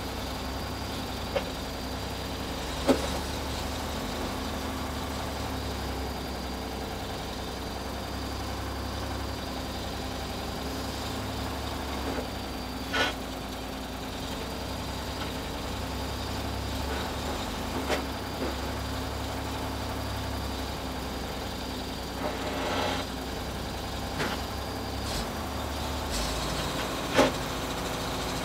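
Backhoe loader's diesel engine running steadily at low revs, with a few sharp knocks and clanks scattered through.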